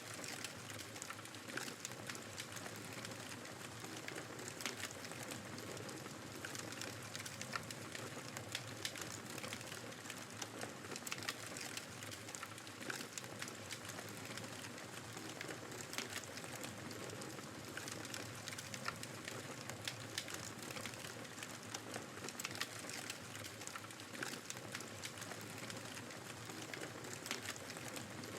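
Wood fire crackling, with irregular sharp pops and snaps over a steady hiss of snowstorm wind.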